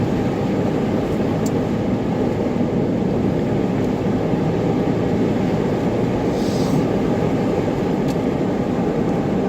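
Steady road noise heard inside a moving car's cabin: tires running on a snowy road with the engine running underneath.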